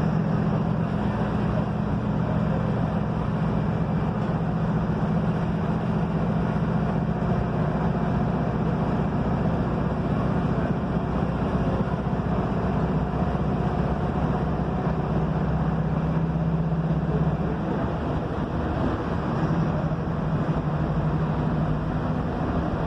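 Mercedes-Benz OF-1721 bus's diesel engine running under way, heard from inside the cabin over road noise. Its steady drone drops away briefly about three-quarters of the way in, then picks up again.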